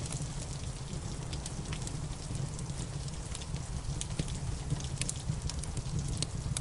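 Wood fire crackling with frequent sharp, irregular pops, over a steady hiss of rain and a low rumble.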